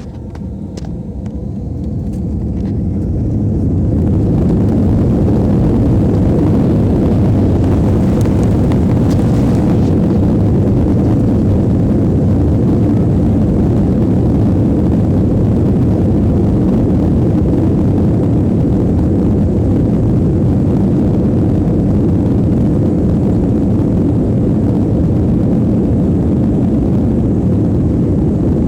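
Jet airliner engines at takeoff thrust: a loud, deep rumble that builds over the first few seconds and then holds steady.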